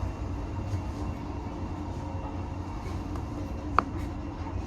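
Steady low rumble and hiss of a heritage railway train, with one short, sharp, high-pitched squeak near the end.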